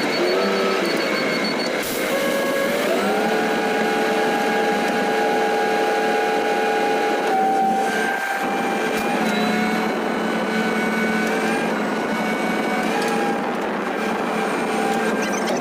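Tow truck's engine running with a steady whine that glides up in pitch twice in the first few seconds, then holds and steps up slightly a few more times.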